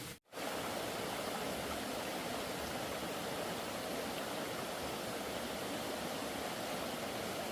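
Steady rushing noise, like running water, starting after a brief drop to silence just after the start.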